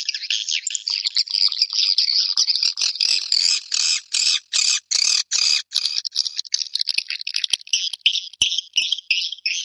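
Swiftlets twittering in a dense stream of high, buzzy chirps, as played from a swiftlet-house lure recording. Around the middle the chirps break into separate pulses, about three a second, then come quicker again toward the end.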